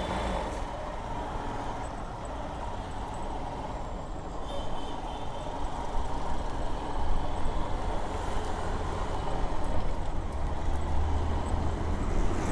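Hero Hunk motorcycle's single-cylinder engine running as the bike pulls away and rides off, getting louder from about six seconds in as it picks up speed.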